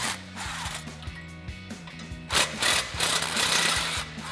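Impact wrench with an extension and 14 mm socket hammering in bursts, a short one at the start and a longer run of under two seconds past the middle, backing out the spring bolts on the exhaust's front flange, over background music.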